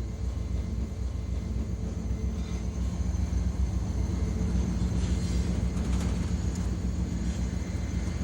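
EMD diesel road-switcher locomotive engine running steadily with a low rumble while switching cars in the yard.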